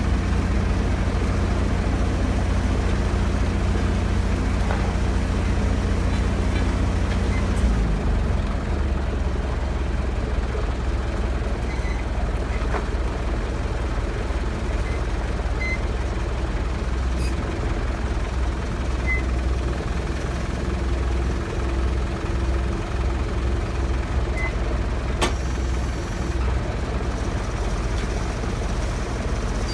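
Heavy diesel engine running steadily, its even hum dropping to a lower, rougher rumble about eight seconds in as it slows. One sharp click about 25 seconds in.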